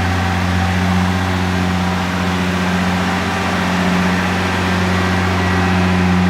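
2009 Nissan GT-R's twin-turbo 3.8-litre V6 idling steadily just after a cold start.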